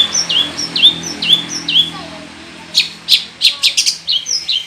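Long-tailed shrike (cendet) singing: a run of about six sharp whistled notes, each dropping in pitch, then a quick burst of harsh chips about three seconds in, and two more falling notes near the end.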